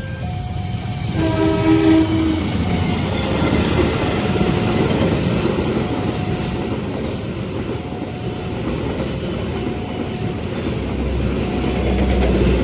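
A train horn blast lasting about a second, then a train passing at speed with steady wheel rumble and rail clatter. The level crossing's warning alarm keeps sounding its repeating two-pitch tone underneath.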